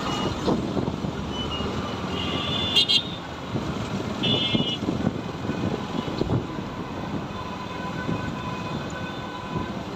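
Road and wind noise from a moving motorcycle in traffic, with two short vehicle horn honks, one about two and a half seconds in and one about four and a half seconds in.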